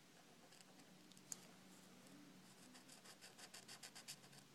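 Faint scratching of a marker colouring on paper, with a quick run of back-and-forth strokes in the second half and a single tick about a second in.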